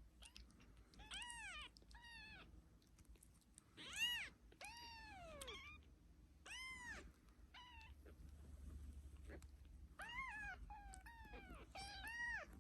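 Kitten meowing repeatedly: about ten short, high-pitched meows, the loudest about four seconds in, followed by a longer meow that falls in pitch.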